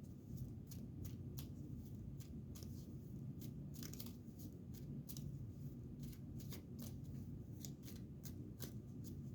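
Tarot cards being handled: faint, irregular clicks and light snaps of card stock, a few to several a second.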